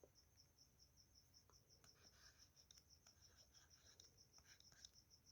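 Near silence, with faint scratches and ticks of a pen writing on paper, and a faint high pulsing at about six pulses a second.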